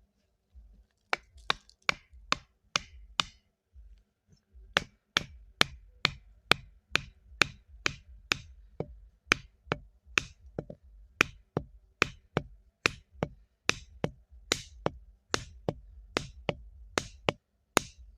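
A steady series of sharp knocks, like a tool striking wood, about two to three a second, with a short pause about three seconds in.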